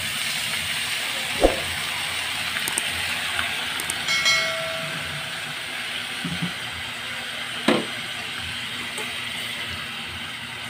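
Chicken pieces sizzling in hot oil with ginger, garlic and onion in an aluminium pot: a steady frying hiss. Two sharp knocks, and a short metallic ring about four seconds in.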